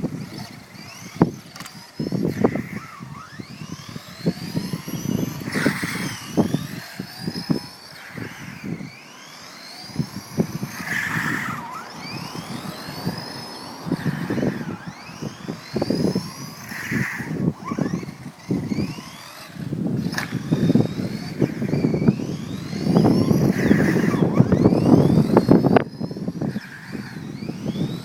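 The stock 21-turn electric motor of an Ansmann Blizzard 1/10 RC car, whining up in pitch about ten times as it is throttled in short bursts. Under it run a loud rumble and many sharp knocks.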